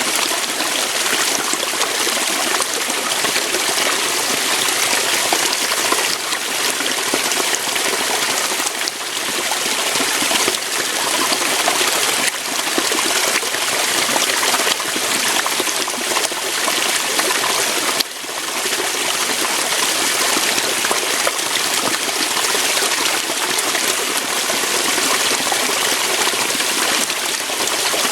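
Waterfall, water pouring over rocks in a steady, dense rush, with a brief dip in level about two-thirds of the way through.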